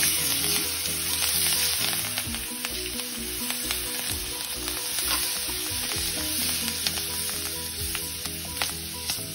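Green chillies and curry leaves sizzling in hot oil as a tempering, stirred with a wooden spatula, with a steady hiss and small clicks of the spatula against the pan.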